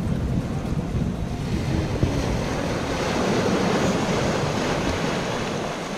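Steady rush of water with wind buffeting the microphone, the low rumble thinning about halfway through to a brighter hiss.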